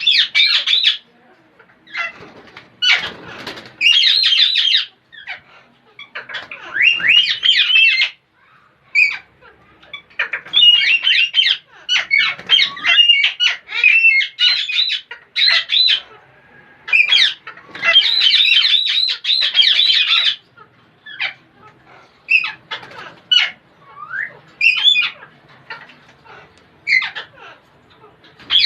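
Parrots chattering and squawking in bursts of quick, high-pitched calls that slide up and down in pitch, with short pauses between bursts.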